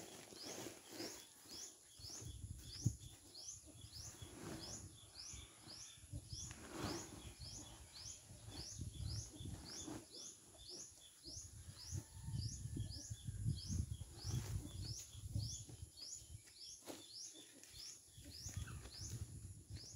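A bird chirping over and over, short rising chirps about twice a second, with a steady high-pitched whine behind it.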